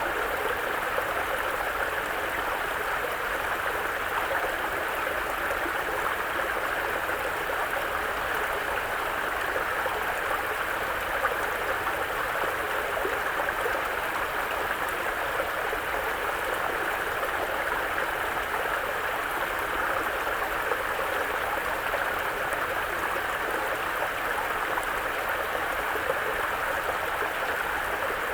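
Mountain brook flowing over rocks, a steady babbling of running water.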